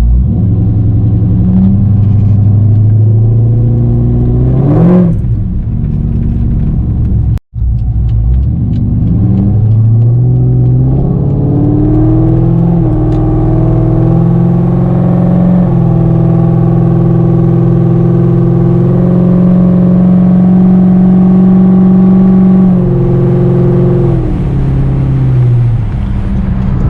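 Loud exhaust of a 500-horsepower Corvette's pushrod V8 as the car is driven. The engine revs up and back down about five seconds in, then pulls and cruises, its pitch stepping at the shifts and throttle changes. The small turbo whistles clamped into the exhaust add little that can be heard.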